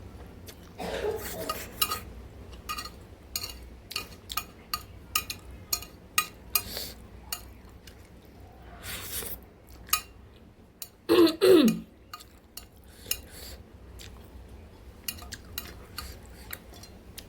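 Eating utensils clinking and scraping against a bowl of spicy instant ramen, many short clicks with chewing and eating sounds. About eleven seconds in comes a brief, louder sound that falls in pitch.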